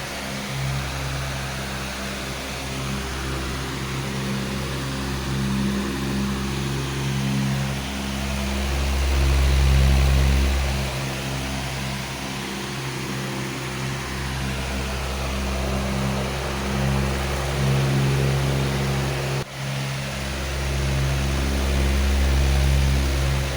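Powerful electric fan running steadily: a low motor hum under a rush of air, swelling slowly in level now and then, with one momentary dip near the end.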